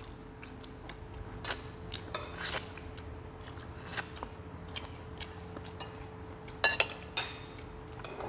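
Close-up eating sounds through a clip-on microphone: chewing braised salmon head, with scattered clicks of a spoon against bowls and plates. The loudest is a quick run of clicks about two-thirds of the way through, over a faint steady hum.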